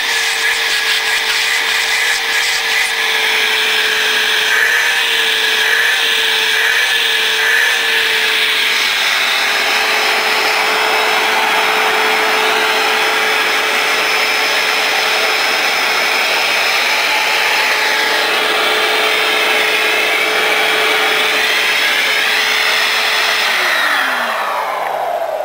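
Dirt Devil Vision Swivel Glide bagless upright vacuum running steadily, its brush roll turning on a newly fitted belt. Near the end it is switched off, and its motor whine falls in pitch and fades as it spins down.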